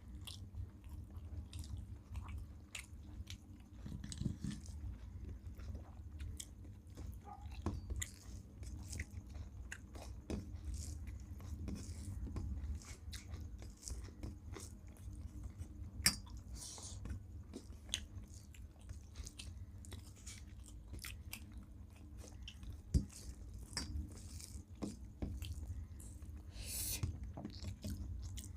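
Close-up chewing and mouth sounds of people eating rice with shukto, a steady run of small wet clicks and smacks. Two sharper clicks stand out, about halfway through and again later.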